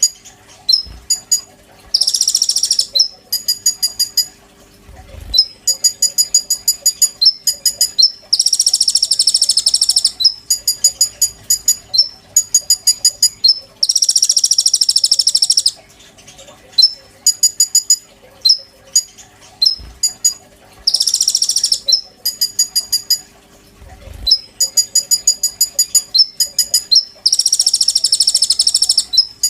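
A konin songbird singing: fast runs of sharp, high chipping notes, broken about five times by loud, dense buzzy trills of one to two seconds each. A faint steady hum lies underneath.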